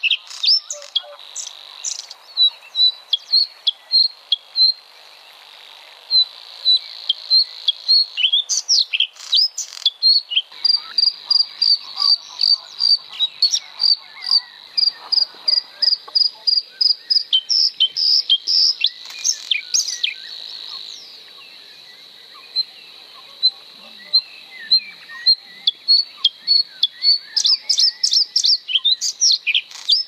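Rapid run of short, high bird chirps, several a second, over a steady high insect drone; the chirping eases for a few seconds past the middle, then picks up again near the end.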